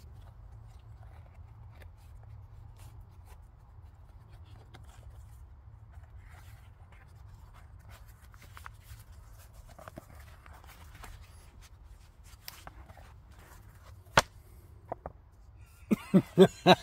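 A low steady rumble with scattered faint taps and rustles, and a sharp click about 14 seconds in. Near the end a loud burst of rapid, rhythmic voice-like pulses begins.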